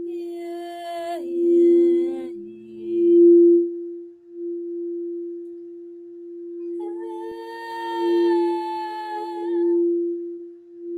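A singing bowl ringing in one long, steady tone, with wordless vocal toning over it. The voice holds a note, steps down twice in the first few seconds and then stops. It comes back on a higher, slightly wavering note near the end.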